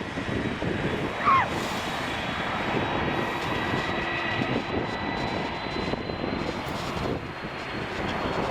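Airbus A330-200 airliner's jet engines running with a steady rush and a thin whine that slowly rises in pitch. A brief loud falling squeak comes about a second in.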